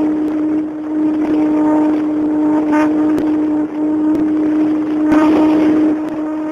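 Small airplane's engine running steadily with a buzzing drone that holds one pitch.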